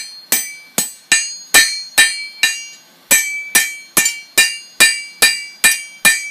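Blacksmith's hand hammer striking a piece of steel on an anvil in a steady series of blows, about two to three a second, each with a bright metallic ring. There is a short pause around halfway through before the blows resume.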